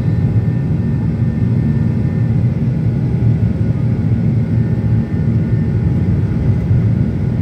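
Boeing 737 cabin noise in flight: a steady low rumble of engines and airflow with faint, constant whining tones above it.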